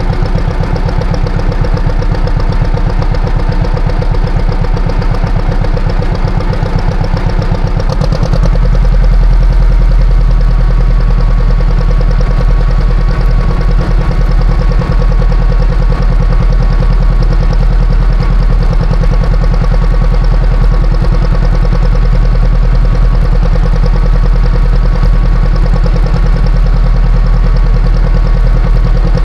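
Classic John Deere tractor engine running steadily with a rapid pulse. About eight seconds in it grows louder and deeper, and a steady higher tone joins in.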